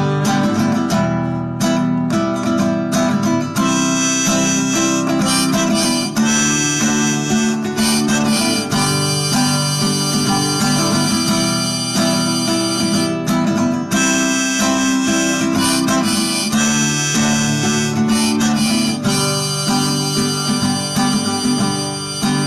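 Instrumental break in a song: a harmonica playing a melody over acoustic guitar.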